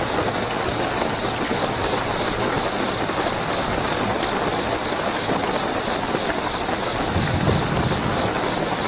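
Steady heavy rainfall with a continuous high cricket trill over it, and a low rumble of distant thunder swelling about seven seconds in.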